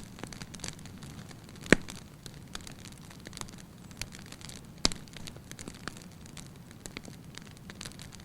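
Wood fire burning in a fireplace: a low steady rush of flame with scattered small crackles and snaps, and two loud sharp pops, just under two seconds in and about five seconds in.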